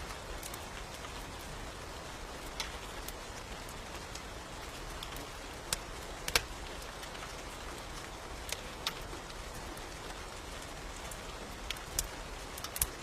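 Steady rain, with scattered sharp crackles of a wood fire every second or two.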